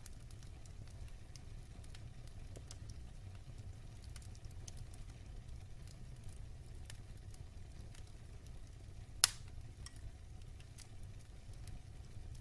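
Wood fire burning in a fireplace: a steady low rumble of flames with scattered faint crackles, and one sharp, loud pop about nine seconds in.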